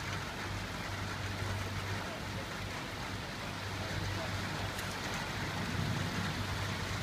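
Steady thunderstorm rain falling, an even hiss with a constant low hum underneath.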